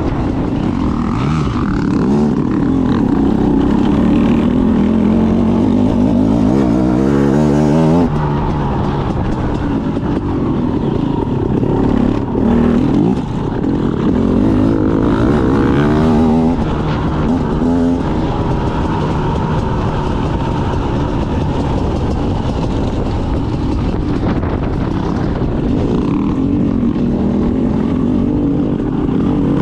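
Off-road motorcycle engine being ridden hard, its pitch rising and falling over and over as the throttle opens and closes and the gears change, with a sharp drop in revs about eight seconds in and a brief dip a few seconds later.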